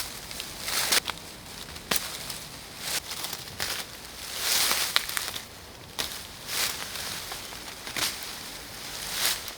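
Leaves, twigs and ferns rustling, crunching and snapping underfoot and in the hands, in irregular bursts, as forest-floor debris is gathered.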